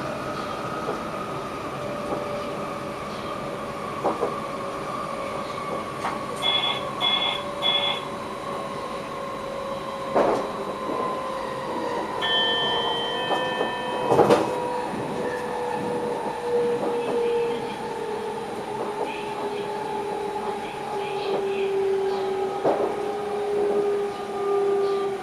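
Electric train heard from inside the driver's cab, its traction motors whining with a pitch that falls slowly as the train slows. Three short high electronic beeps come about seven seconds in, a pair of higher tones follows a few seconds later, and there are occasional knocks of wheels over rail joints.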